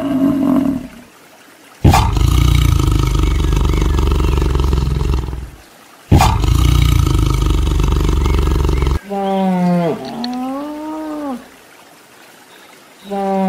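Tiger roaring twice, each roar a few seconds long and starting suddenly, after a water buffalo's call ends in the first second. Then a moose calls twice in long moans that waver in pitch.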